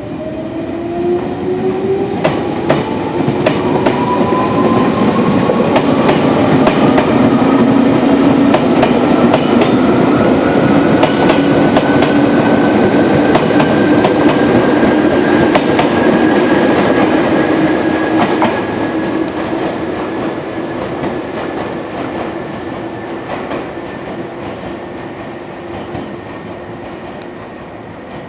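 Izukyu 8000 series electric train pulling out and accelerating: its traction motors whine in a steadily rising pitch, and the wheels click over the rail joints. The train grows loud, then fades away over the last several seconds.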